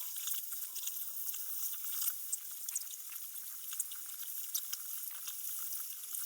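Steel plate of a backhoe bucket being cut with a torch: a steady crackling sizzle dotted with small pops.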